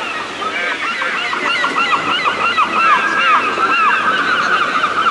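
A flock of gulls calling, many short arched calls overlapping continuously and growing denser about two seconds in.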